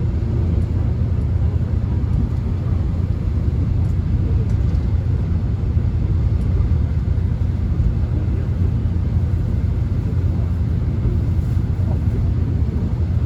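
Subway train running, heard from inside the passenger car: a steady low rumble with an even hiss of track and wheel noise above it.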